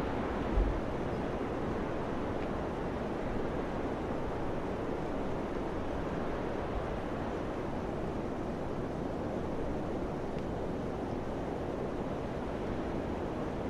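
Steady rushing of summer wind, an even noise with no tones, with one brief low thump a little over half a second in.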